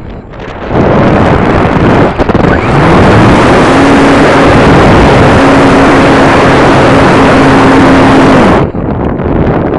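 Loud wind rush over an onboard camera microphone on an RC model airplane in flight, with the motor's tone rising in pitch about three seconds in and then holding steady. The whole sound cuts off suddenly near the end.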